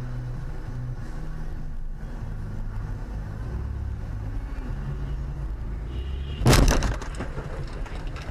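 Steady low drone of a car driving, then about six and a half seconds in a sudden loud crash of a car collision, a bang with a short clatter after.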